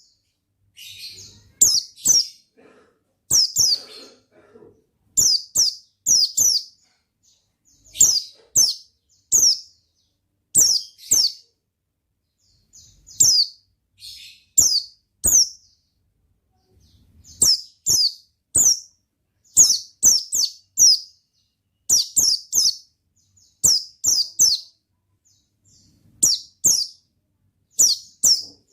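A pleci (white-eye) singing: short, high chirps sweeping downward, in quick groups of two or three, repeated every second or two with brief pauses.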